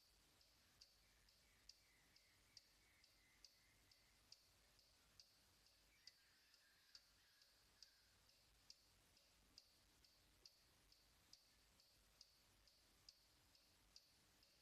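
Near silence with faint, high, short ticks repeating a little over twice a second, alternating stronger and weaker. A faint thin tone drifts briefly in the background twice.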